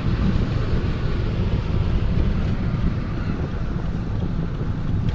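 Steady low rumble of a car driving, with wind noise buffeting the microphone.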